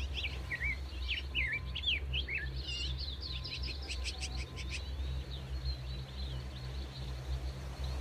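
Songbirds calling: a busy run of quick chirps and short whistled notes that slide up and down in pitch, thinning out after about five seconds, over a steady low rumble.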